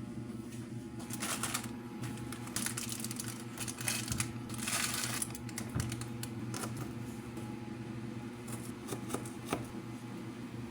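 Light clicks and clatter from hands handling small objects, with a few short rustling swishes in the first half, over a steady low hum.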